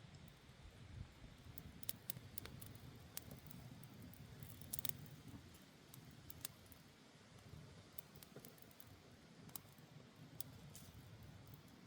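Campfire crackling quietly: sharp, irregular pops and snaps, bunched about two and five seconds in, over a low steady rumble.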